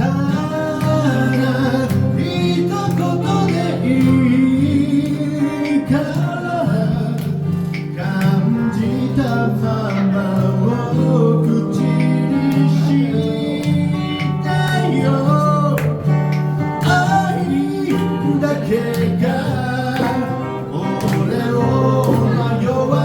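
Live band music led by guitar: a melody line bending in pitch over steady bass and chords, with no break.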